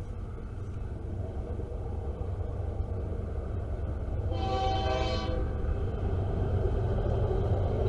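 Approaching diesel locomotive, its low engine rumble growing steadily louder, with one short air-horn blast about four and a half seconds in.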